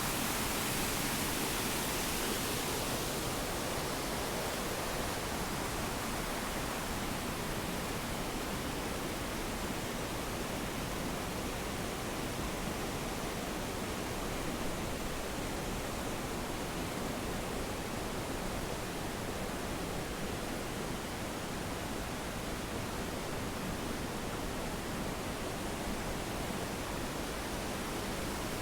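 A waterfall's steady rush of falling water, an even hiss and roar with a slightly brighter, hissier edge for the first few seconds.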